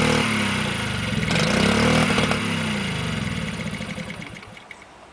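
1998 Honda 50cc motorcycle engine, freshly cold-started after sitting a long time, revving up and down twice as the throttle is twisted, then fading out near the end.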